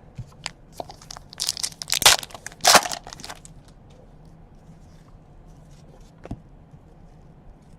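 Crinkling and tearing of a trading-card pack wrapper, a burst of crackles about one and a half to three seconds in, loudest around two seconds and again just under three, with small clicks of cards being handled.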